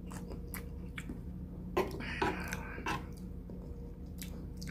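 A person chewing a mouthful of instant noodles, with scattered soft wet mouth clicks and smacks and a slightly louder one about two seconds in.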